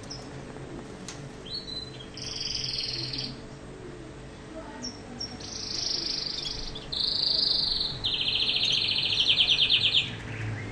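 Male canaries singing in separate high phrases of rolling trills, ending in a long, rapid trill about eight to ten seconds in, the loudest part.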